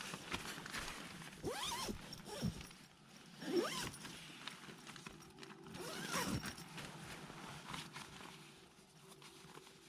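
A zipper pulled open or shut in several long, sweeping strokes, with pauses between them.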